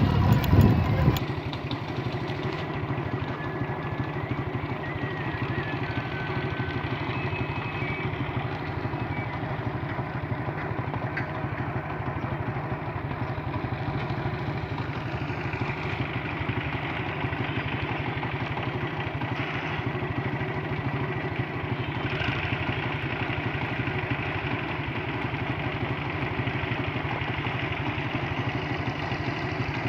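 A vehicle engine running steadily, louder for about the first second and then even in level.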